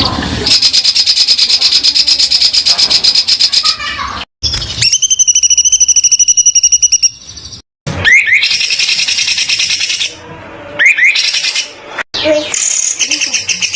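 Caged songbird song of the 'tembakan kasar' kind: fast, dense strings of harsh high notes, a clear ringing trill a few seconds in, then short rising chirps near the end. The recording is spliced, so the phrases stop abruptly at hard cuts.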